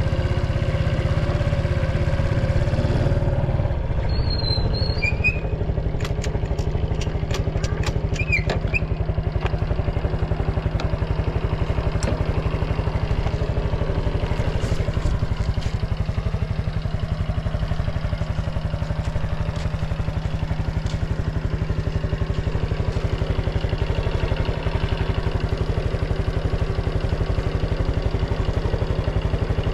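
Honda Super Cub 110's fuel-injected single-cylinder four-stroke engine idling steadily with no abnormal noise. A few light clicks and squeaks come between about four and nine seconds in.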